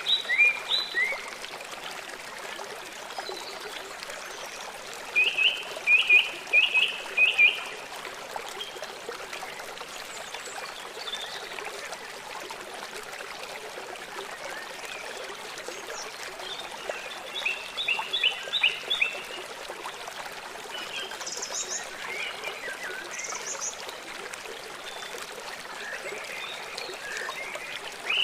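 Small birds chirping in short runs of quick repeated notes, several times, over a steady sound of running water.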